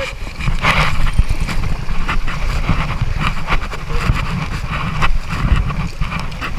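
River water rushing and splashing around an inflatable raft, with wind buffeting the microphone in a heavy, uneven rumble.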